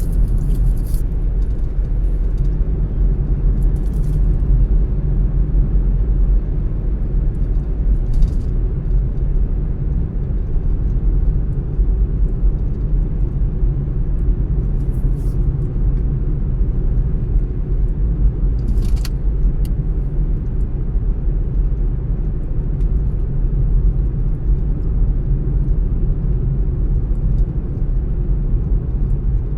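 Car driving at a steady speed: a constant low rumble of engine and road noise, with a few brief faint clicks now and then.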